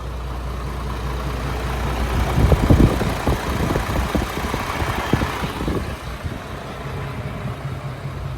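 The truck's 7.8-litre Isuzu diesel idling with a steady low hum. From about two to six seconds in, a louder stretch of crunching and clicking noise covers it.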